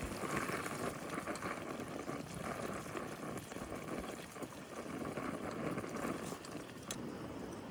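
Trout frying in a pan over a propane burner: a steady sizzle.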